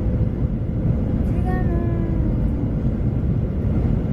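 Steady low rumble of jet airliner noise inside a Boeing 737 passenger cabin. A brief, faint pitched sound, like a distant voice, falls slightly about a second and a half in.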